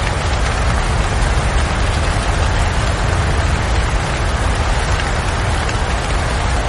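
Steady rain, an even dense hiss with a constant low rumble beneath it.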